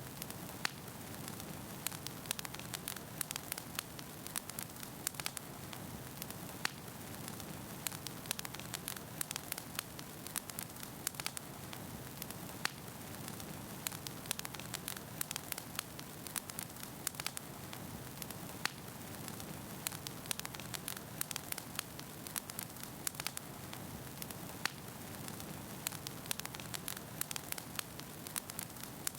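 Wood fire burning in a fireplace: a steady low rush of flames with dense, irregular crackles and pops from the burning logs, several a second.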